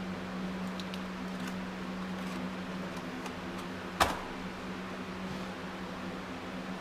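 Metal engine parts handled on a workbench: light tapping and one sharp metallic clink with a brief ring about four seconds in, over a steady low hum.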